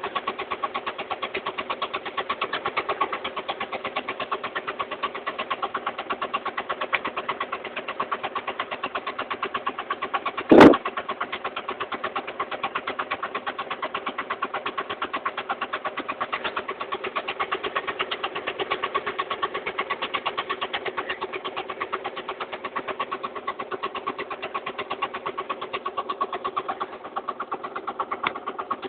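An engine running steadily at an even idle-like pace, with rapid regular pulsing. A single sharp knock sounds about ten seconds in.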